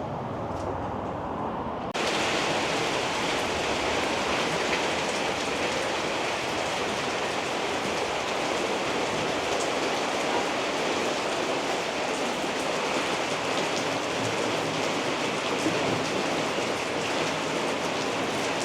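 Heavy rain pouring down, a steady dense hiss that cuts in suddenly about two seconds in after a quieter stretch.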